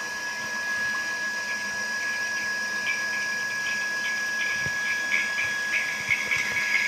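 Small electric pump motor of a home-made desalination rig running with a steady whine. From about a second and a half in, irregular spattering joins it and grows denser toward the end: water starting to spurt and trickle out of the outlet.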